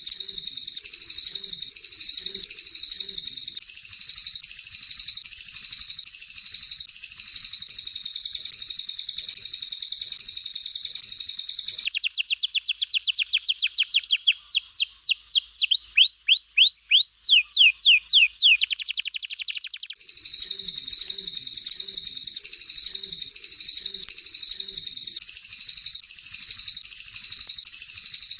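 Recorded song of a canary and a cililin: dense, continuous high-pitched warbling, broken in the middle by about eight seconds of fast, repeated downward-sweeping whistles, after which the dense song returns.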